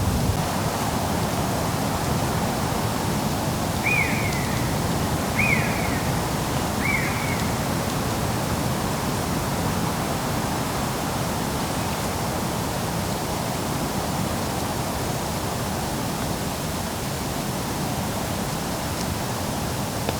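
Steady rushing background noise in a wood, over which a bird gives three short, down-slurred calls about a second and a half apart.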